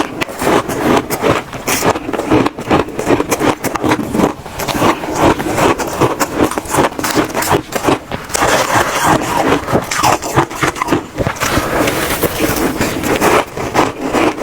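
Close-miked crunching of shaved ice being bitten and chewed spoonful after spoonful, a dense run of loud crackling crunches with no pauses.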